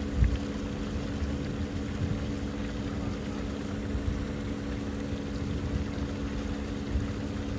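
Steady low engine drone that does not change in pitch, with irregular gusts of wind rumbling on the microphone.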